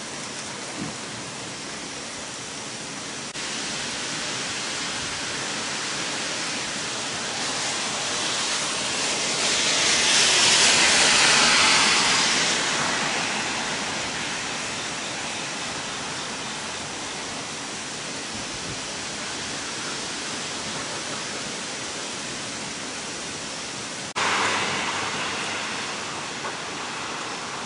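Steady rushing noise of heavy hurricane rain and wind, swelling louder for a few seconds midway. It turns suddenly louder near the end. A faint short pop comes about a second in.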